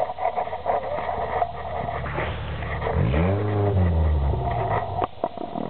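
Suzuki 4x4's engine running under load as it descends a steep, muddy track, revving up and settling back once about three seconds in. A single sharp knock near the end.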